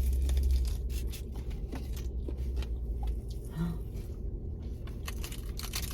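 Close-up chewing and crunching of tacos, a run of short crisp crunches and mouth clicks through the bites. A steady low hum runs underneath, heaviest in the first few seconds.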